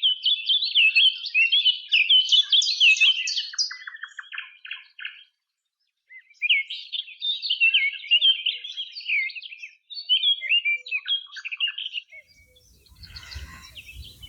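A songbird singing: two long bouts of quick, varied, high twittering phrases, broken by a pause of about a second in the middle.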